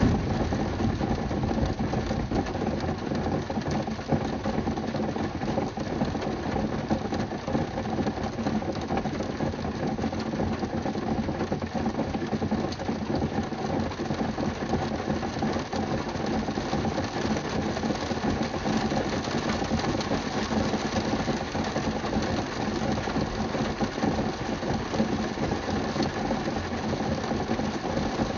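Steady rain from a rainstorm hitting the roof and windows of a car, heard from inside the cabin: a dense, even patter of drops.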